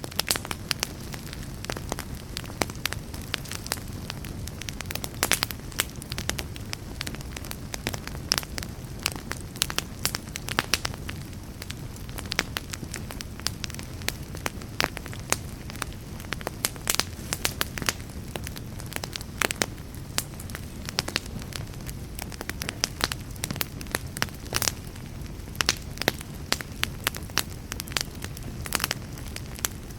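Fireplace fire burning, a steady low rumble with frequent sharp, irregular crackles and pops.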